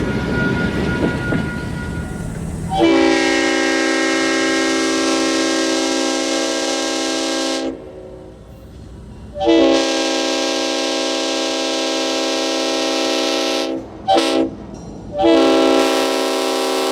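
Leslie RS5T five-chime air horn on a GP38-3 diesel locomotive sounding the grade-crossing signal: two long blasts, one short and a final long one, over the rumble of the moving train.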